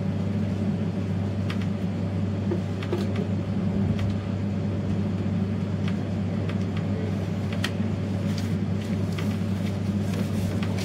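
Train running along the track: a steady low rumble and hum, with scattered light clicks and rattles.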